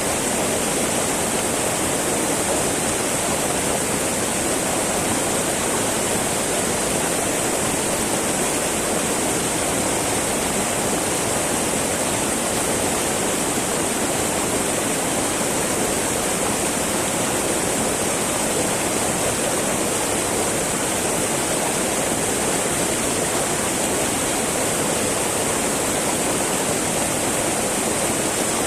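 Small mountain river babbling over rocks, a steady, unbroken rush of flowing water.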